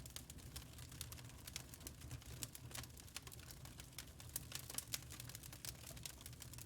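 Fire in a fireplace crackling: many quick irregular snaps and ticks over a low, steady rumble.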